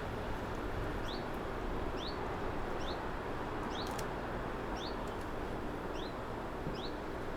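A small bird gives short, high chirps evenly, about once a second, over a steady hum of street ambience.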